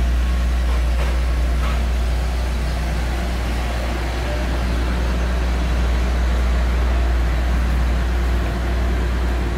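Chevrolet Omega sedan engines idling steadily while they warm up, a constant low rumble.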